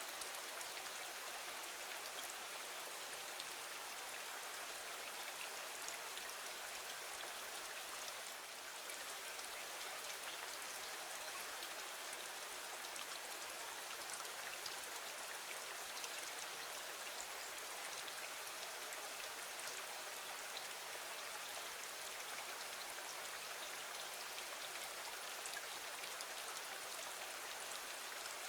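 Steady rain falling against a window: an even hiss of rain with scattered small ticks of drops.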